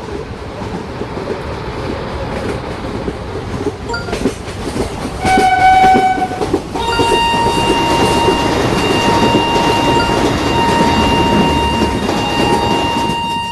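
Electric train running past with a steady rumble and wheel clatter that grow louder. A little over five seconds in, a horn sounds one short blast; about a second later a longer horn in a higher pitch starts and holds.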